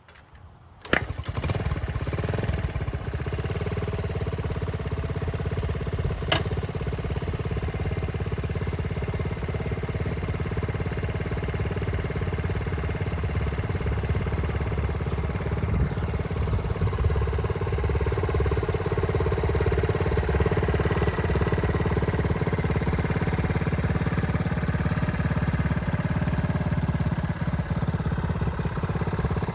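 A 1971 Honda CT-70H's small single-cylinder four-stroke engine fires on a cold start about a second in, then idles steadily. A sharp click is heard a few seconds later.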